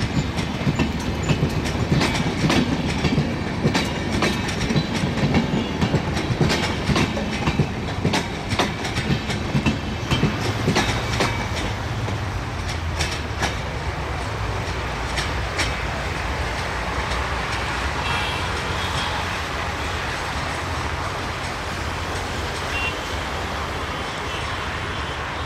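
Indian Railways LHB passenger coaches rolling past close by, their wheels clacking over rail joints in quick irregular runs. About halfway through the clacking thins out and a steady rumble remains as the last coach moves away.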